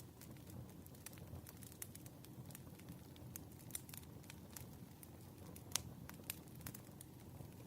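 Wood fire burning, faint crackling with irregular small pops over a low rumble, one sharper pop a little before six seconds in.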